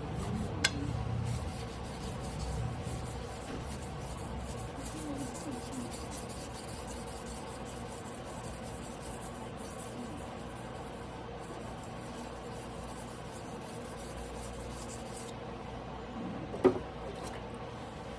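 Tojiro Damascus carbon-steel yanagiba blade rubbing on a sharpening whetstone by hand, a steady scraping, with a sharp click about half a second in and another near the end.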